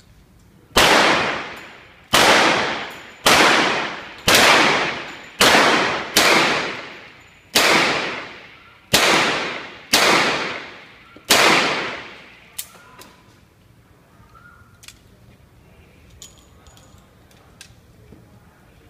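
Ten gunshots, roughly one a second, each followed by a long echoing decay: a .38-calibre revolver being fired. After the shots come a few faint clicks.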